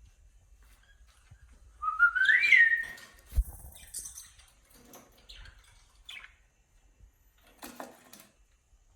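Cockatiel whistling: one loud, rising, wavering whistle about two seconds in, followed by a few short, fainter chirps.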